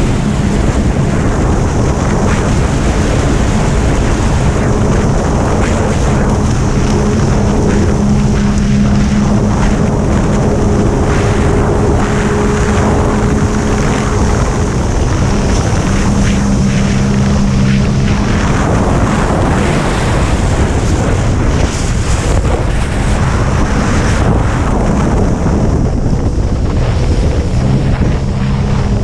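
Racing jet ski engine running at speed under loud wind buffeting and water noise. The engine note holds steady, then fades under the wind and water for much of the second half before returning near the end.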